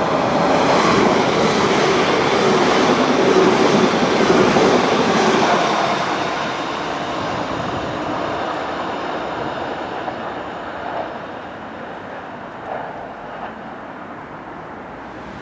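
Class 802 bi-mode passenger train running past. It is loudest in the first few seconds, fades away after about six seconds, and gives a few faint clicks near the end.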